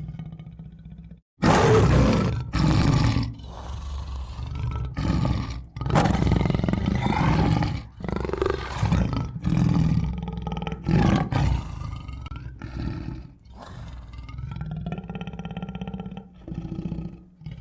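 Tiger roaring and growling repeatedly: a sudden loud roar about a second and a half in, then a string of shorter roars and snarls of uneven length, over a low steady rumble.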